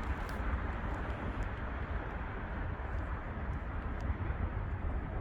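Road traffic on a bridge: a steady low rumble with hiss, without any single passing vehicle standing out.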